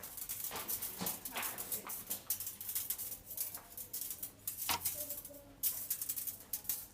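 Metallic sphere making a dense, irregular rattling of clicks.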